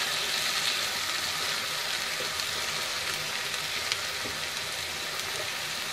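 Onion-tomato masala with bones sizzling steadily in hot oil in a frying pan, with a faint tick about four seconds in.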